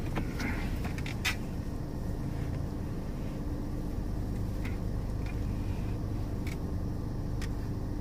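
Car engine running at low speed while the car reverses into a parking space, heard from inside the cabin as a steady low rumble with a faint steady hum. There are a few short clicks, the clearest about a second in.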